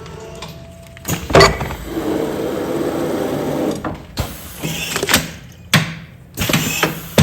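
Commercial food-container sealing machine working through a sealing cycle: a steady mechanical running noise broken by several sharp clacks.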